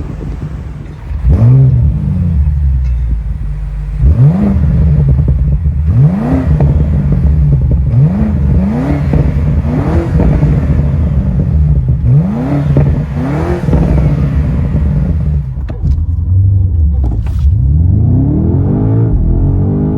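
BMW M5 G90's S68 twin-turbo V8 revved in about eight short throttle blips, each rising in pitch and falling back to a steady idle between them, with a longer climbing rev near the end. A few sharp cracks come shortly before that last rev.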